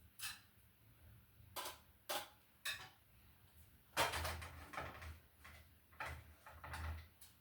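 Kitchen clatter of pots, dishes and utensils: a string of short knocks and clinks, with the loudest, longest clatter about four seconds in.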